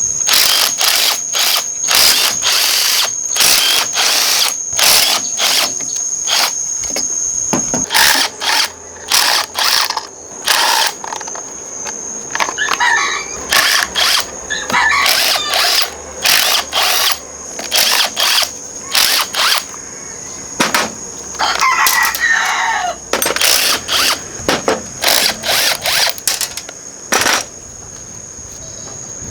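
Rapid, irregular short bursts of hissing noise, each under half a second, repeated throughout. Behind them a rooster crows and an insect keeps up a steady high trill.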